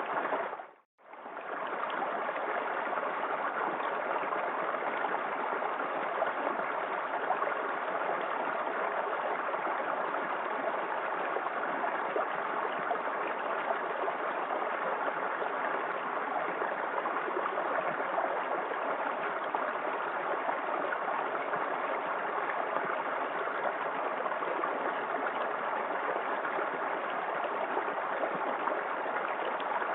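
Small waterfall in a creek, water splashing and rushing steadily. About a second in the sound briefly fades out to silence and comes back.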